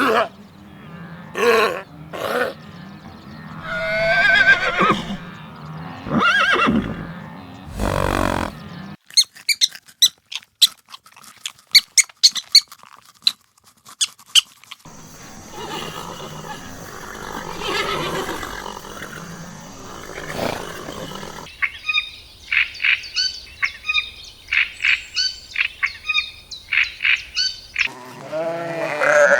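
A run of different animal calls, livestock among them, changing every few seconds. Pitched calls come first, then a burst of sharp clicks, then a noisier stretch, then a fast series of short repeated calls.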